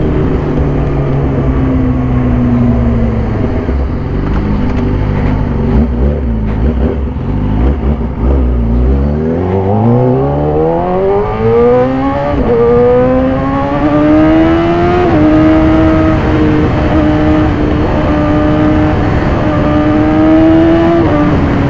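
2014 Yamaha YZF-R6's inline-four engine through an SC-Project exhaust, ridden on the road. The engine note falls as the bike slows, then climbs steeply about halfway through as the rider accelerates, and holds a high, steady note near the end.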